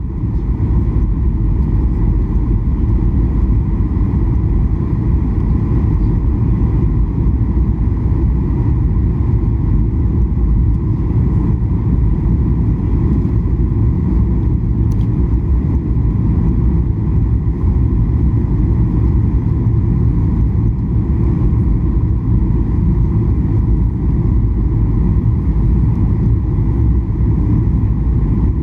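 Cabin noise of a Boeing 737-800 on final approach: a loud, steady, deep rush of engine and airflow noise, with a faint steady tone above it.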